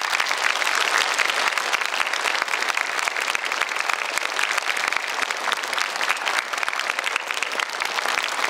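A large audience applauding: many hands clapping together in a dense, steady patter.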